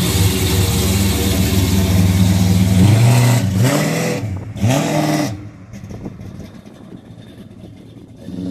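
1968 Dodge Charger's V8 rumbling at low revs as the car rolls off. About three seconds in it revs up in about three quick rising pulls as it accelerates away, then drops sharply and fades into the distance.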